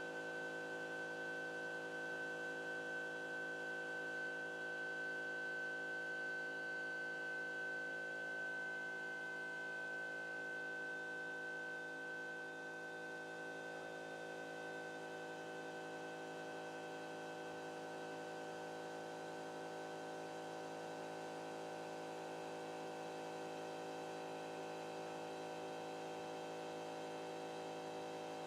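Stepper motors of a CNC pen-drawing machine running as it moves the pen, a steady hum made of several tones at once. A high whine in it fades out about halfway through.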